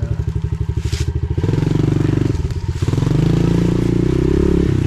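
Pit bike's small single-cylinder engine chugging at low revs, picking up about a second and a half in, then holding higher revs from about three seconds in. A brief crackle about a second in.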